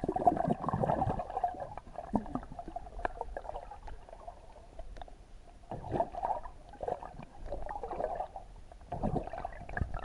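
Sea water sloshing and lapping in irregular surges, with scattered small knocks.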